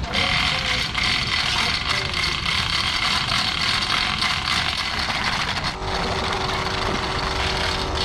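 An engine running steadily, with a steady hum joining about six seconds in.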